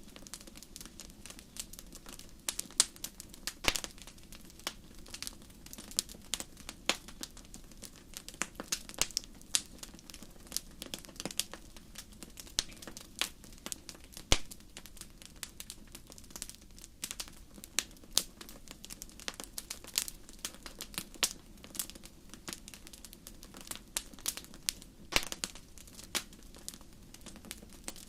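Campfire crackling: irregular sharp pops and snaps, several a second, over a steady low background.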